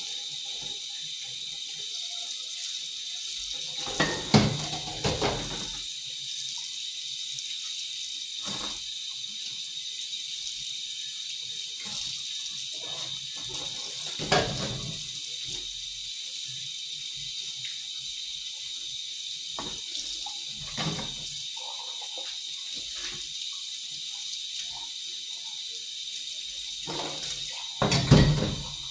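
Water running steadily from a kitchen tap into a sink, with a few knocks and clunks of things handled in it. The loudest knocks come about four seconds in, at fourteen seconds and near the end.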